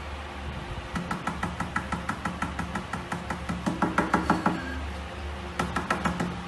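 A rapid run of light knocks or taps, about five a second, lasting a few seconds and loudest toward its end; a shorter run follows near the end, over a low steady hum.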